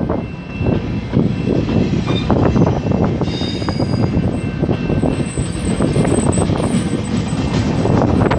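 Commuter train running past on the track: a loud, steady rumble of the cars with rapid clatter throughout.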